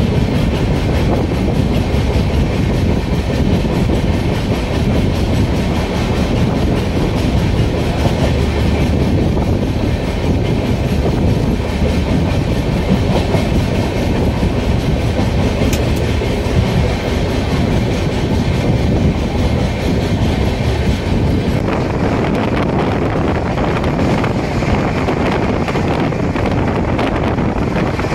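Passenger train running along the track: steady, loud noise of the moving coach and its wheels on the rails.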